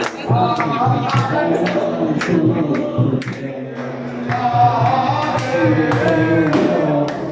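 A male voice singing an Arabic chant (nasheed) over steady handclaps or beats, about two a second.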